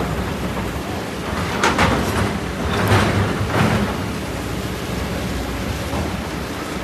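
Kobelco SK200 excavator's diesel engine running steadily while the bucket works through volcanic rock and sand, with a few rasping scrapes and clatters between about two and four seconds in.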